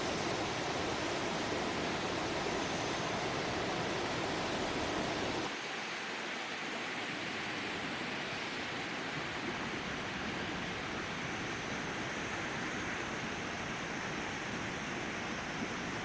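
Steady rushing noise with no distinct events. About five and a half seconds in it changes abruptly, losing much of its low rumble, and goes on thinner.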